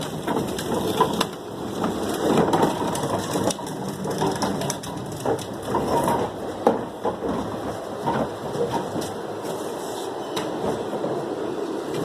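Irregular clattering and crunching, like objects being handled or crushed, with louder bursts in the first half that settle into a steadier rustle.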